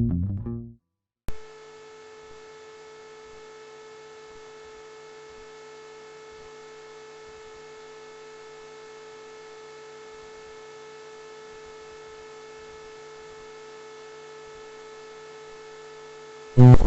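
Steady electrical hum made of several fixed tones, coming in with a click about a second in, after the last notes of a plucked-string tune fade out.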